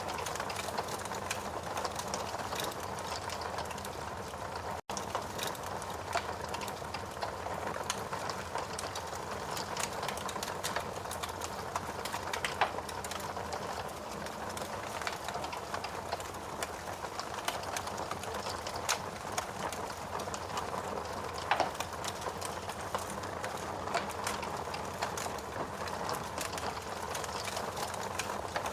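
Steady rain hiss under a crackling wood fire, with scattered small snaps and a few louder pops. The sound cuts out for an instant about five seconds in.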